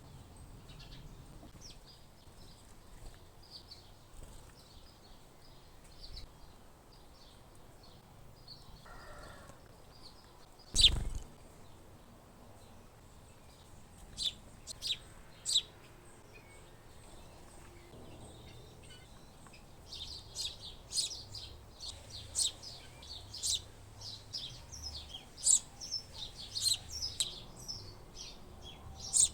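Small birds chirping at a feeder, scattered at first, then in quick, busy runs of short high chirps from about twenty seconds in. A single sharp knock about eleven seconds in is the loudest sound.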